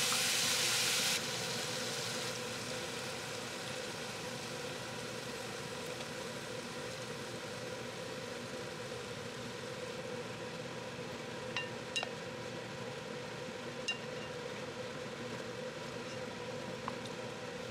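Chicken thighs frying in a pot, a steady sizzle, with a louder high hiss that cuts off about a second in. A few light clicks sound in the second half as the pot is seasoned and stirred with a wooden spoon.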